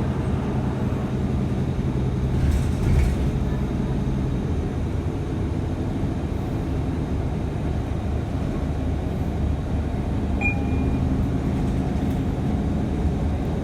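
Inside a moving city bus: steady engine and road rumble, with the engine's low hum easing after about four seconds.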